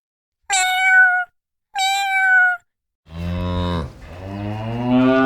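A cat meows twice, two short high calls. Then a cow gives a long low moo lasting about three seconds.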